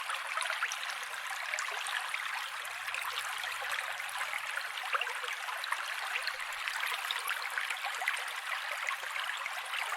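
Mountain creek running: a steady, even rush of water flecked with many small splashes and trickles, thin and without any deep rumble.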